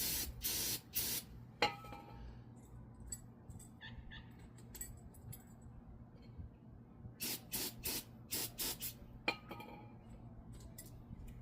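Aerosol brake cleaner sprayed in short hissing bursts onto brake pad hardware clips: a few bursts at the start, then a quicker run of about six short bursts in the second half. Light metal clinks come between the bursts.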